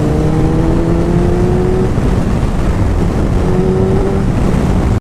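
Motorcycle engine running at highway speed, its note climbing slowly over the first two seconds and again briefly near the end, under heavy wind rumble on the rider's microphone.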